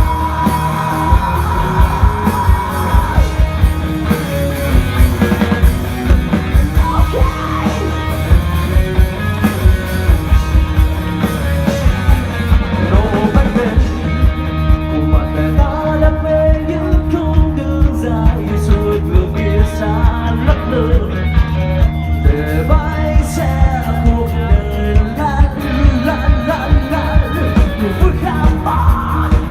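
Rock band playing live: a steady drum beat with bass and electric guitars, and some singing over it.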